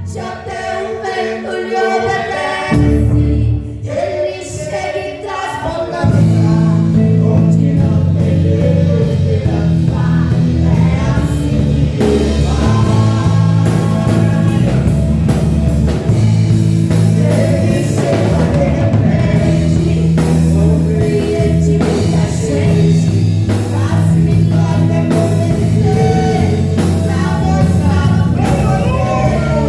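Live gospel praise song: singing over a church band. The full band comes in loudly about six seconds in, with a heavy low end and steady beats under the voice.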